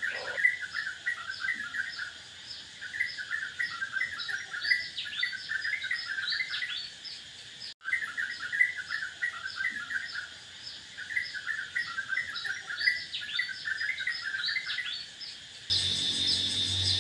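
Small birds chirping in quick repeated phrases with short falling whistles, cutting out for an instant about halfway through. Music starts about a second before the end.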